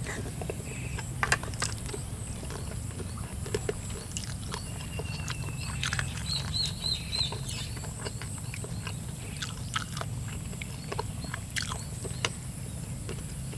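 People chewing and eating stir-fried eel and rice, with scattered small clicks, over a steady low background hum. A bird chirps a quick run of about four high notes about six seconds in.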